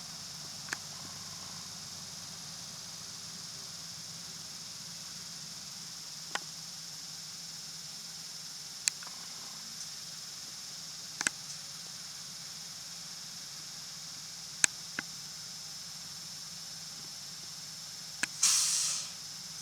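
Inside a city route bus: a steady low hum and hiss, with sharp clicks or rattles at irregular moments. Near the end comes a short burst of hissing that fades away within about a second.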